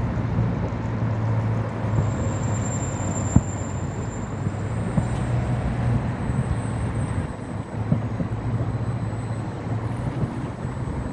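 Steady outdoor noise, a low traffic-like rumble and hiss, with a couple of faint sharp pops about three and eight seconds in.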